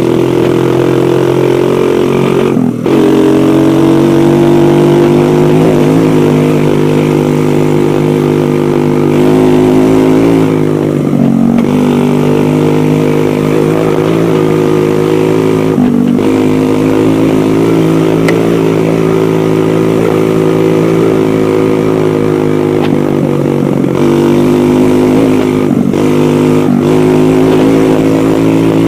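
Dirt bike engine running steadily under way, with brief drops in pitch and level several times.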